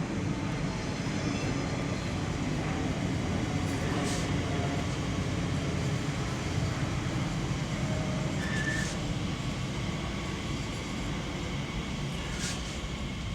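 A TfL Rail Class 345 electric train running along the platform with a steady rumble, with a few short high-pitched squeaks scattered through.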